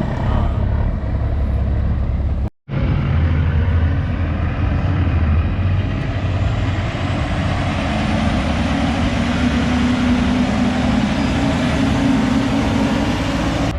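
Large truck's engine running steadily as it rolls in, with a faint high whine that rises in pitch from about halfway. The sound cuts out for an instant about two and a half seconds in.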